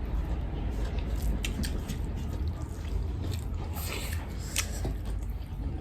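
Wet chewing and mouth smacking of someone eating curry and rice, with scattered small clicks, over a steady low hum.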